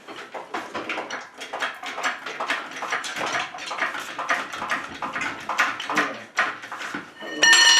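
Metal clinking and rattling as the engine and transmission are lifted out, with a loud ringing metal clang near the end.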